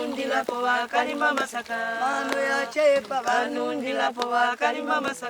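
Several voices singing together in a rhythmic, chant-like song.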